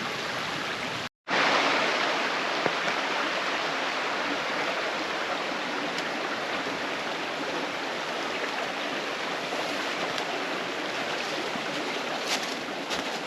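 Steady rushing of a creek's running water, broken by a momentary dropout about a second in. A few sharp clicks sound near the end.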